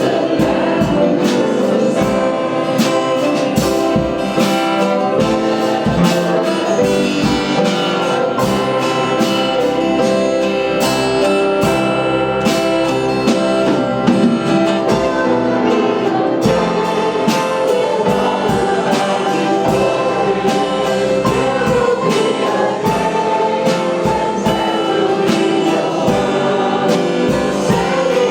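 Congregational worship music: a choir or group of voices singing a gospel song over a band with a steady beat.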